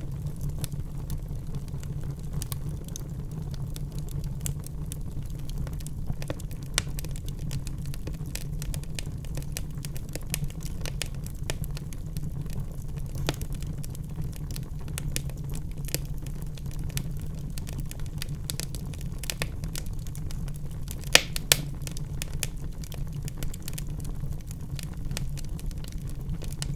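Wood fire in a fireplace crackling, with irregular sharp pops and snaps over a steady low rumble. Two louder pops come close together about two-thirds of the way through.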